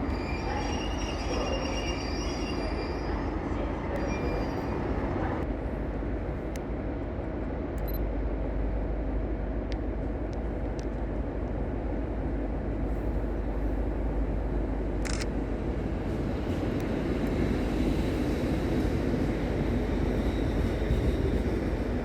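A train moving through a station with a steady rumble of wheels and engine, a thin high squeal in the first few seconds, and the sound building slightly near the end.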